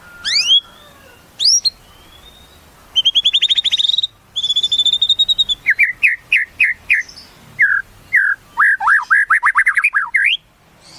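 White-rumped shama (murai batu) singing: a few quick upward-sweeping whistles, then fast high trills, then a rapid run of repeated notes that speeds into a chattering flourish near the end.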